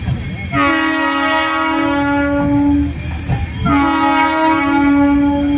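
Indian Railways locomotive air horn sounding two long blasts, each over two seconds, with a short gap between, over the low rumble of a train moving through the station.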